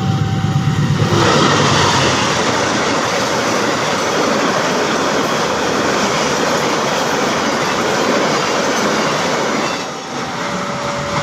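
Bengawan passenger train passing close by, a loud steady rush of wheels on rails lasting about nine seconds. A two-pitch electronic warning tone sounds at the very start and comes back near the end as the train clears.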